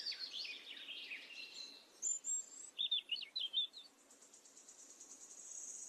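Small birds chirping and singing: quick falling chirps in the first two seconds, a few short high notes, a burst of quick chirps around three seconds in, then a rapid high trill that grows louder near the end.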